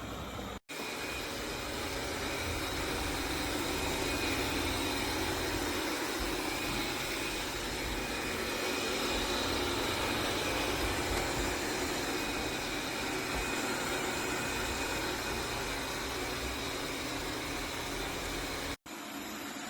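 Tikom L8000 Pro robot vacuum running: a steady whirring hiss of its suction fan with a faint high whine. The sound cuts out abruptly for an instant less than a second in and again near the end.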